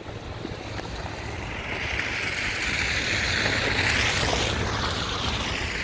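A vehicle passing on a slushy, snow-covered street: its tyre hiss swells, peaks about four seconds in and fades away, over a low wind rumble on the microphone.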